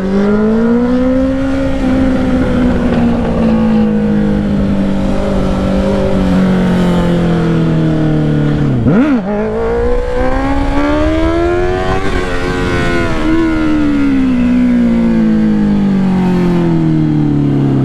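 Honda CBR650R's inline-four running loud through a Black Widow exhaust with the dB killer removed, heard from the bike while riding. The engine pitch sags slowly, drops and recovers sharply about nine seconds in, climbs again, then eases off near the end.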